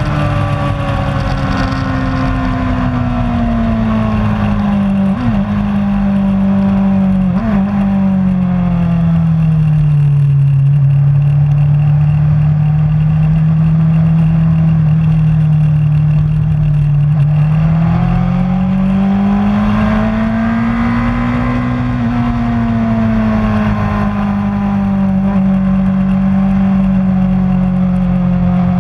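An engine running continuously with a strong steady note. Its pitch sinks slowly over several seconds, holds low, rises again about two-thirds of the way through, then settles at a middle pitch.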